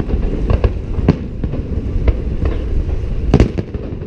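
Fireworks salute: an irregular, rapid series of bangs over a steady low rumble, with the loudest pair of bangs about three seconds in.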